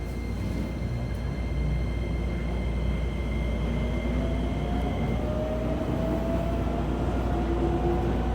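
Keisei 3000 series train heard from inside the car as it accelerates: the Toyo IGBT VVVF inverter and traction motors whine, the tones climbing steadily in pitch, over a low running rumble. A steady high tone sounds over the first half and fades out.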